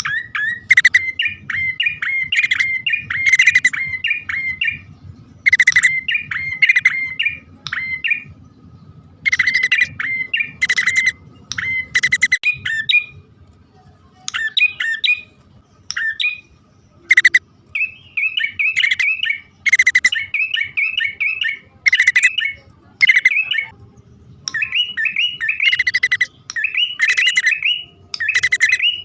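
Prenjak poci (prinia) calls played as a trapping lure: bursts of rapid, sharp, high chattering notes, each a second or two long, repeating with short gaps.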